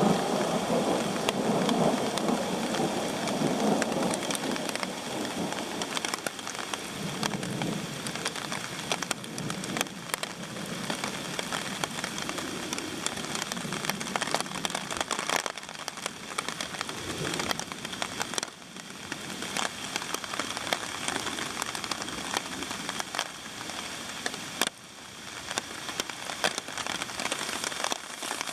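Steady rain falling in a thunderstorm, with many individual drops striking close by. Thunder rumbles low during the first few seconds.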